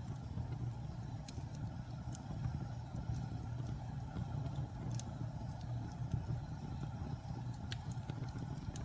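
Campfire of burning logs: a steady low rumble of the flames with scattered sharp crackles and pops from the wood.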